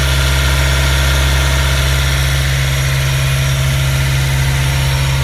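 A sailing yacht's engine running steadily, a constant low drone.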